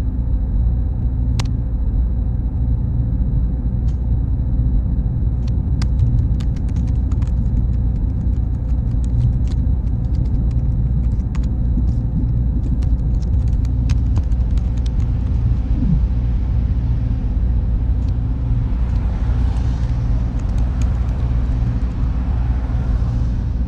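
Server room ambience: a steady low hum of cooling fans and machines with a thin, constant high whine. Faint scattered clicks run through it, and a wash of hiss rises near the end.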